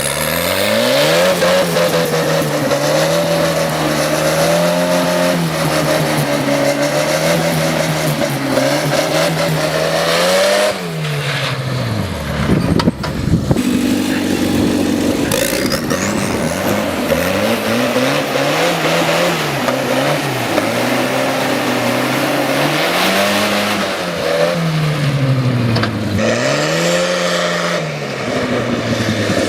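Turbocharged Fordson tractor engine running at high revs, held steady for long stretches, with the revs dropping and climbing back several times.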